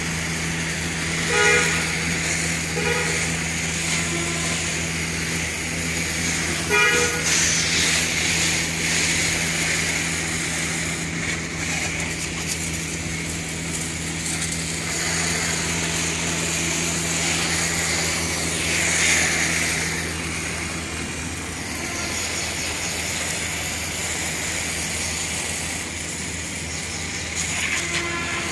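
Portable electric pressure washer spraying water onto a car: the pump motor hums steadily under the hiss of the jet, and the hum weakens in the last third. A few short honk-like beeps sound in the first seconds.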